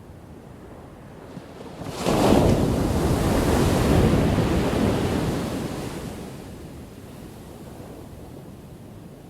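Ocean wave crashing: a sudden loud rush of surf about two seconds in that holds for a few seconds and then fades away into a low, steady wash.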